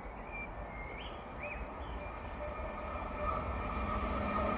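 CrossCountry Voyager diesel multiple unit approaching at speed, growing steadily louder, with a high hum building in the second half. A few short chirps sound in the first two seconds.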